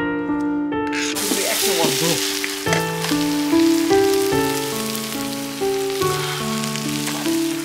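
Food sizzling and frying in a hot pan, starting suddenly about a second in and continuing steadily, over background music.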